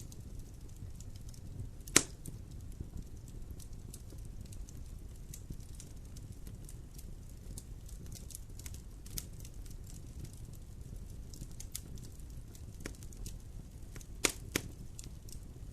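Fire burning in a fireplace: a low steady rumble of flames with scattered small crackles and sharp pops, the loudest pop about two seconds in and two more close together near the end.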